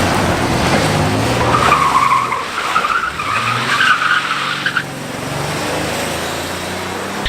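Pontiac Firebird doing a burnout: the engine revs while a rear tire spins and squeals, the squeal strongest and wavering from about one and a half to five seconds in. Only one rear tire spins, a 'one tire fire', the sign of an open differential.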